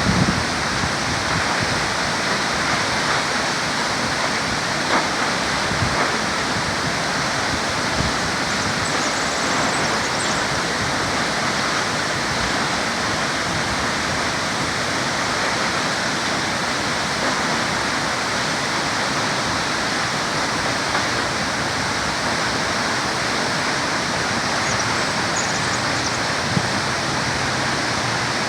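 Upper Multnomah Falls: a waterfall's steady rush of falling water.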